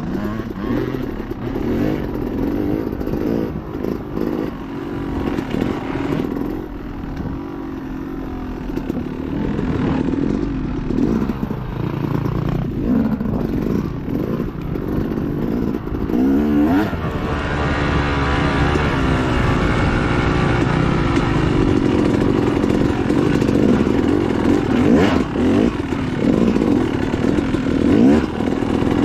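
Dirt bike engine revving up and down in constant throttle changes while ridden off-road; it gets louder and brighter about seventeen seconds in.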